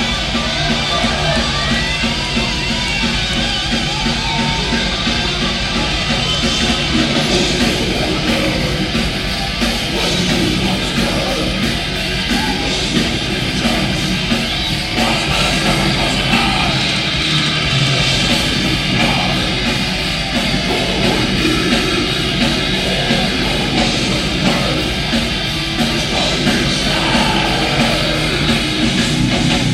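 Melodic death metal band playing live at full volume: heavily distorted electric guitars and drums in a steady, dense wall of sound, recorded from the audience.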